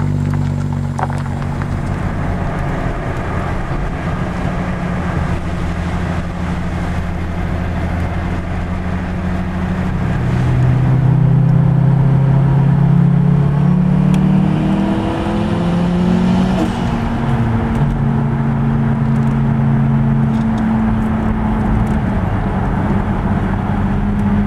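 Nissan Skyline R33 GT-R's twin-turbo RB26DETT straight-six engine running on the move, a steady drone. About ten seconds in it gets louder and climbs in pitch for several seconds as the car accelerates, drops sharply with a gear change, then settles back to a steady cruise.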